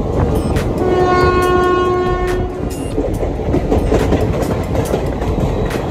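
Passenger train running on the rails: a steady heavy rumble with scattered clicks of wheels over rail joints. A train horn sounds one blast, about a second and a half long, starting about a second in.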